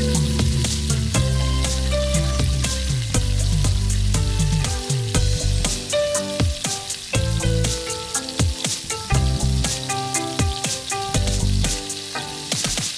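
Food sizzling and crackling in a cooking pan, under background music with shifting held notes and gliding bass.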